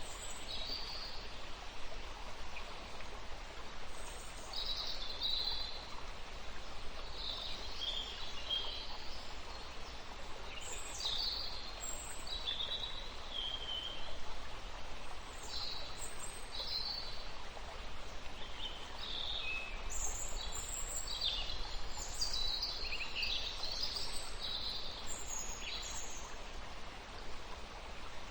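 Birds chirping and calling in short, high, scattered notes over a steady background hiss, busiest in the second half.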